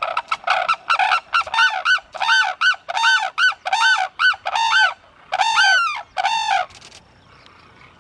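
A bird calling loudly over and over, about eighteen harsh calls that each rise and fall in pitch, quick at first, about three a second, then slowing, with two longer calls before they stop about seven seconds in.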